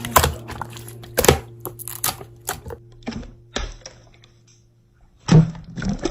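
Irregular sharp clicks and taps, about a dozen over a few seconds, over a low steady hum that stops about five seconds in, then a louder cluster of crackly taps near the end.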